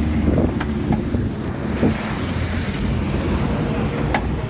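Diesel engine of a Mitsubishi Fuso Canter light truck running, a steady low rumble with a few light knocks.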